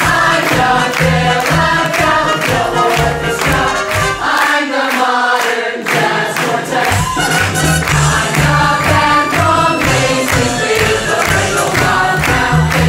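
A song sung by a group of voices over a band with a steady beat, starting abruptly and cutting off abruptly near the end.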